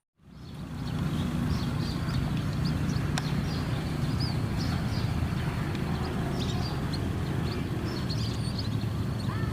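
Many small birds chirping in short, scattered calls over a steady low rumble.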